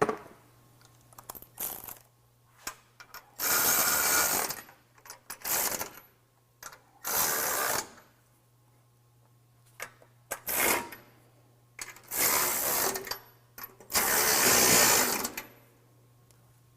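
Power tool run in about six short bursts, tightening the bolts of the bumper frame brackets, with small metal clicks between the bursts.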